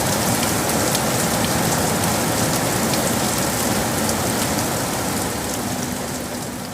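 Steady rain falling in a city, an even hiss with scattered drop ticks, which begins to fade out about five seconds in.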